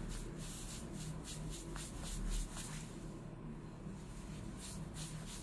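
Ink-wash brush dabbing and rubbing on raw xuan rice paper: a string of short, soft strokes, several a second, that thin out briefly around the middle, over a low steady hum.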